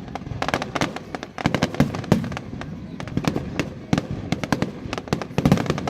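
Aerial fireworks going off in a rapid barrage: a dense series of sharp bangs and crackles, several a second, without a pause.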